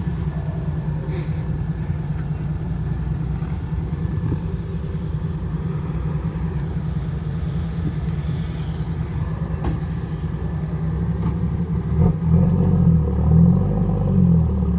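Large diesel engine running steadily. About twelve seconds in, its pitch starts rising and falling as it is revved.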